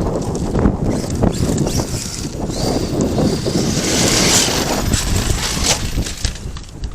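ARRMA Kraton 8S RC monster truck driving over rocks and rough dirt: its electric motor whines, rising in pitch about halfway through, over steady crunching and clattering of tyres and chassis on stones.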